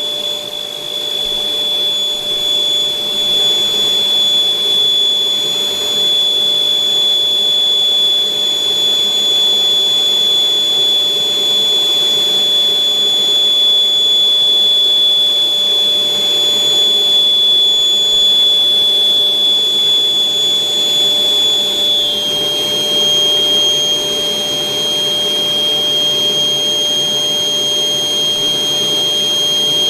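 Electric air blower running steadily, inflating a giant balloon, with a high motor whine that steps slightly lower about three quarters of the way through.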